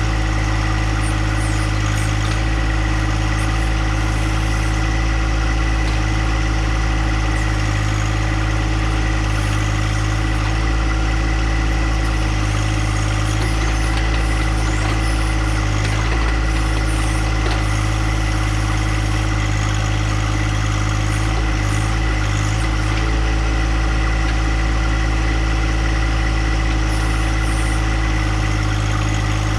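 Little John Deere compact tractor's engine running at a steady speed, its level and pitch not changing.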